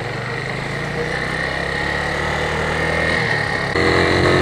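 Motorcycle engine running steadily while riding, slowly getting louder, with a step up in engine sound about three and a half seconds in.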